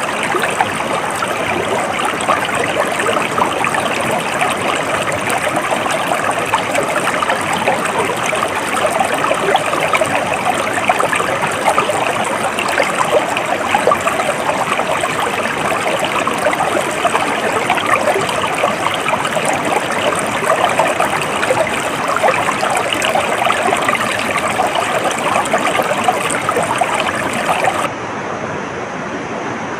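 A stream flowing over rocks, a steady dense babble of running water. Near the end it cuts abruptly to a quieter, duller water sound.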